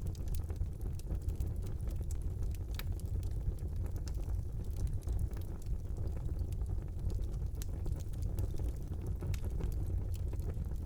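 Wood fire burning in a brick fireplace: a steady low roar of the flames with frequent sharp crackles and pops from the burning logs.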